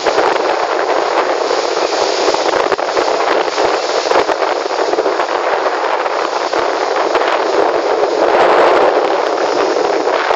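Steady, loud rushing of wind and sea water, swelling slightly about eight seconds in.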